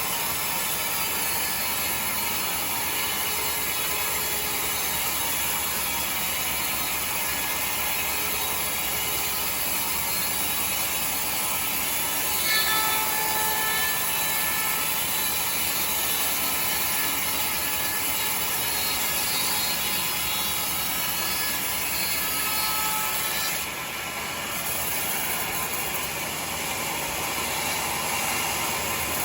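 Sawmill machinery running steadily, a continuous mechanical noise with faint brief high tones about twelve seconds in and again around twenty-two seconds.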